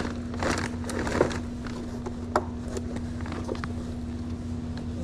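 A steady low hum, with one constant tone like a motor running at idle, under a few scattered light clicks and knocks.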